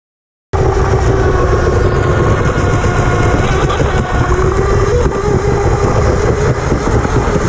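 Onboard sound of a 12th-scale Pro Boat electric unlimited R/C hydroplane running: the electric motor's steady whine over a heavy low rumble of hull, water and wind, recorded from inside the boat's cowling. It cuts in abruptly about half a second in.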